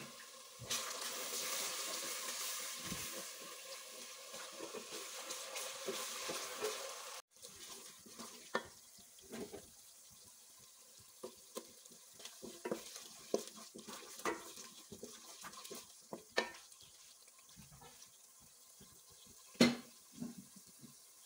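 Onion masala frying in oil in an aluminium pot: steady sizzling for about the first seven seconds, then, after a cut, quieter bubbling broken by scattered knocks and scrapes of a wooden spatula against the pot, the sharpest one near the end.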